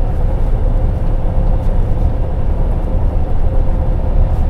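Semi truck's diesel engine running, heard from inside the cab as a steady low rumble with a faint steady tone above it.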